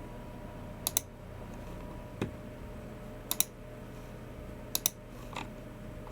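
Scattered clicks from a computer keyboard and mouse, a Logicool MX Keys Mini and a Logicool G304. There are three sharp double clicks, each a quick press and release, spaced a second or two apart, plus a duller knock and a few faint taps.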